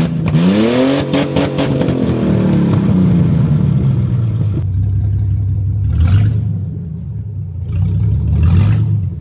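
A truck engine just after starting, revving up sharply for about a second, then dropping back and settling into a steady idle.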